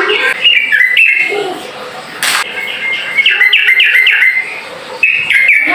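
Yellow-vented bulbul (trucukan) singing a rapid chattering song of quick, bubbling chirps in short bursts. A brief hiss-like noise cuts in about two seconds in.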